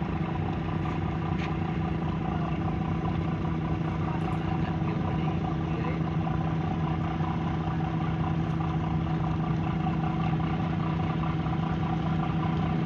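Car ferry's diesel engines running steadily, a constant low hum with a held pitch, as the ship goes astern while berthing.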